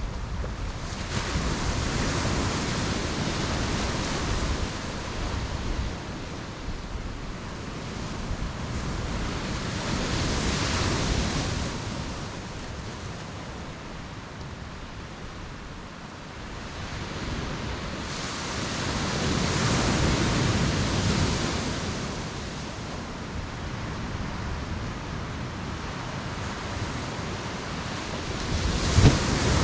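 Ocean surf breaking on a beach: waves surge and wash in about every eight or nine seconds, with a softer hiss of water between them. A low rumble of wind on the microphone runs underneath.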